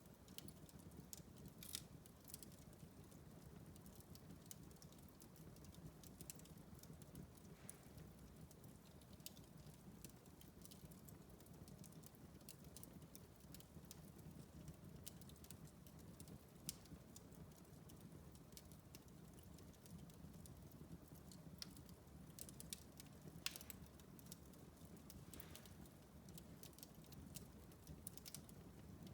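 Wood fire in a fireplace, quietly crackling: scattered sharp ticks and a few louder pops over a low steady burning sound.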